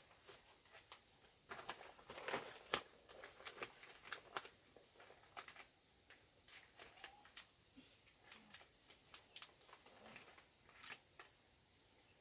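Faint steady high-pitched insect chorus, with scattered light clicks and knocks over it, most of them in the first few seconds.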